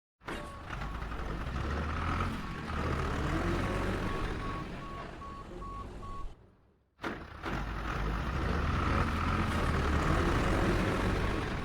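Heavy vehicle engine running with a low rumble while a reversing alarm beeps in short, evenly spaced pulses. The sound cuts out briefly about six and a half seconds in, then the engine and beeping start again.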